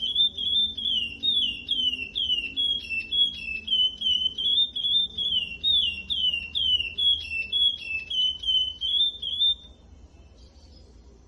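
Curió (chestnut-bellied seed-finch) singing a fast, loud run of clear whistled notes, many slurring downward, about two or three a second; the song stops shortly before the end.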